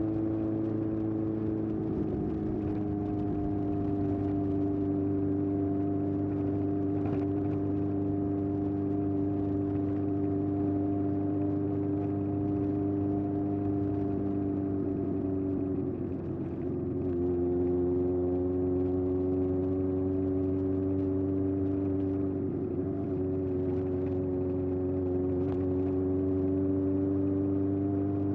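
Air-cooled inline-four engine of a 1981 Honda CB750F, breathing through a period Yoshimura exhaust, running at steady cruising revs. There is a brief dip in loudness about sixteen seconds in, after which the note holds at a slightly different pitch.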